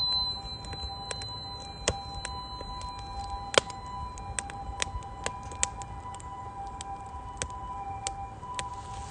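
Firewood crackling in a compact wood-burning stove (Uniflame Nature Stove Large), with irregular sharp pops. Under it, a steady two-note ringing tone holds throughout, and a higher ringing note fades out about three seconds in.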